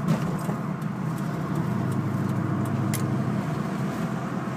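Cabin sound of a 2002 Mustang GT's 4.6-litre V8 cruising at about 55 mph: a steady low engine and road drone, with a light click about three seconds in.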